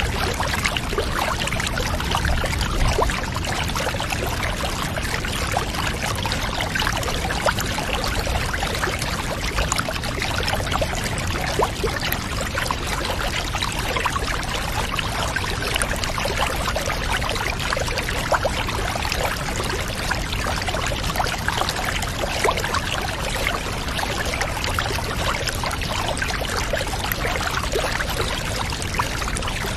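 Water pouring steadily into a filling bathtub, an even, unbroken rush with fine splashing and crackle.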